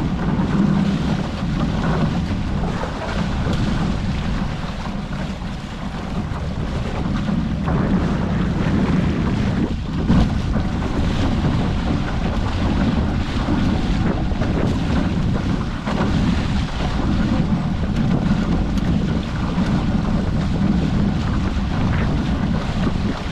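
Wind buffeting the microphone and water rushing past a Hobie 14 catamaran under sail in gusty wind and chop, with a single knock about ten seconds in.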